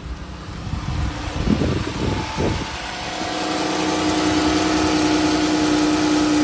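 2017 Dodge Charger engine idling steadily after a fresh oil change, growing louder as it is approached, with a few low bumps about one and a half to two and a half seconds in.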